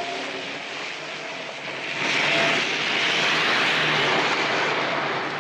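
Car engine running hard as a car drives off at speed, growing louder about two seconds in.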